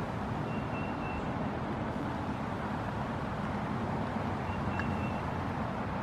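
Two short, high, steady whistled bird notes about four seconds apart, over a constant rumbling background noise.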